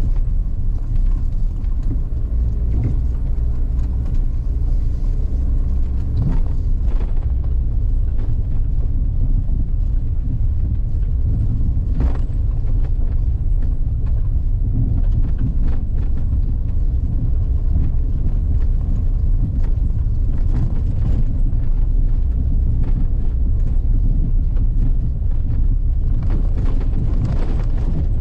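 A vehicle driving along a forest road: a steady low rumble of engine and tyres, with a few short knocks along the way.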